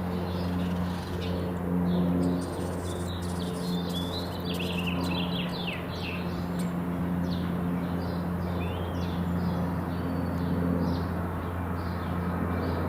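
Small birds chirping again and again over a steady, low, pitched hum of a running engine or machine; the chirps are busiest in the middle.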